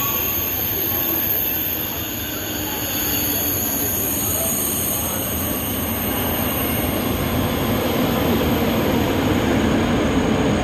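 Train moving along the platform of a below-ground station, a steady rumble of wheels on rails with a thin, high wheel squeal over it. The rumble grows louder in the last few seconds.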